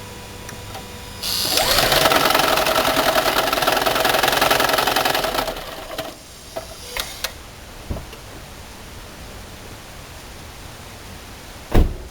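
Toyota Prius 2ZR-FXE 1.8-litre four-cylinder engine starting with one ignition coil disconnected: a fast, rattling knock for about four seconds before it stops, the characteristic knocking start caused by a misfire in one cylinder, with the motor-generator kicking in and out to compensate. A few faint clicks follow, and a single thump near the end.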